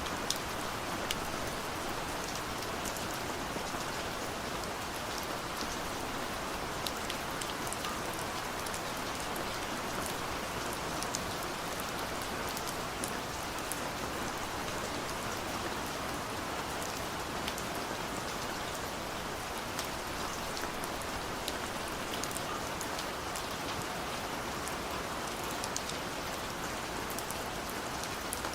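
Steady rain falling on a surface, an even hiss with scattered sharp ticks of individual drops.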